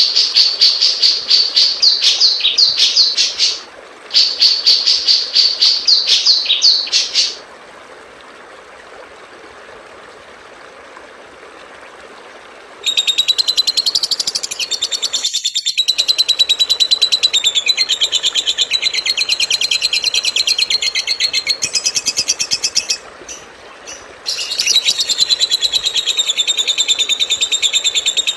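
Songbird song: fast, rapidly repeated high chirps in runs of a few seconds. After a pause of about five seconds comes a denser, faster trill that drops out briefly near the end and then resumes.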